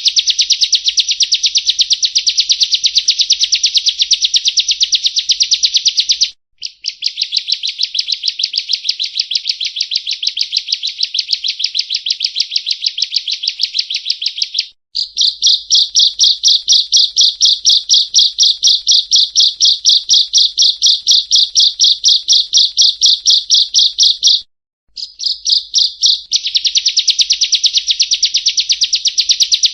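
Bar-winged prinia (ciblek) song: long runs of fast, evenly repeated high, sharp notes, several a second. The runs break off abruptly about 6, 15 and 25 seconds in and start again at once.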